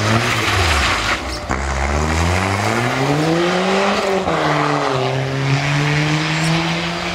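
Turbocharged 1.3-litre Subaru Justy rally car engine under hard driving: the revs dip about a second in, climb steadily under acceleration, fall sharply at a gear change just after four seconds in, then hold nearly steady. A constant hiss of tyre and road noise runs underneath.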